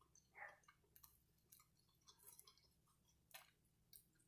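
Near silence with faint chewing and a few soft mouth clicks from eating.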